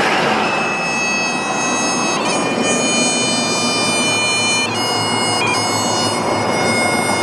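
Bagpipe music: long held notes over a steady drone, with the melody shifting pitch a few times, above a steady rushing noise.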